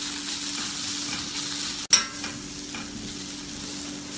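Onion-tomato masala with spice powders sizzling in ghee in a stainless steel kadai, stirred and scraped with a spatula. A sharp click about two seconds in.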